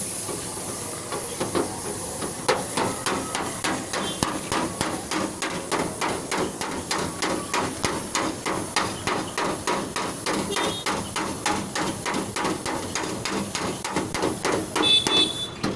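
Hammer tapping steadily on sheet metal, about four blows a second, as in dent repair on a car body panel.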